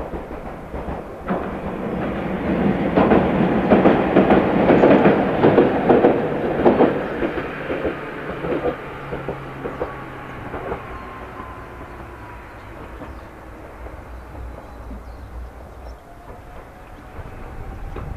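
Electric train passing, its wheels clattering over the rail joints. It builds to its loudest a few seconds in, then fades away, leaving a faint whine that slides slightly down.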